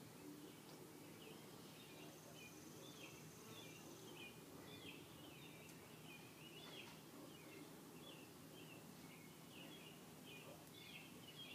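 Faint, continuous chirping from a bird or birds, a rapid run of short chirps over a steady low background hum.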